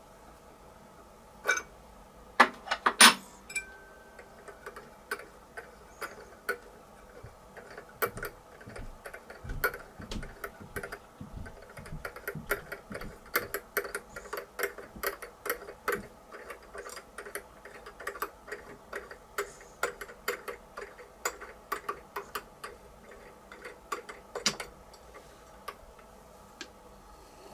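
Small sharp metallic clicks and ticks from hand tapping a #4-40 thread into aluminium plate: a few loud clicks early, then an uneven run of about two to three clicks a second that thins out near the end.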